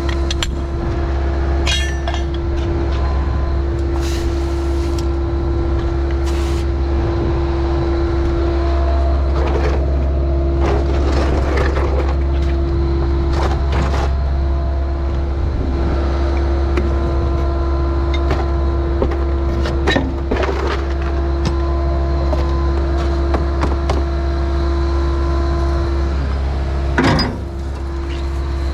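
Heavy equipment engine running at a steady speed with a constant low hum, with scattered short knocks and clanks and a louder clank near the end.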